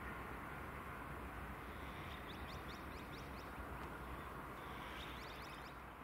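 Faint steady outdoor hum and low rumble, with a small bird giving two quick runs of high chirps, about two seconds in and again about five seconds in.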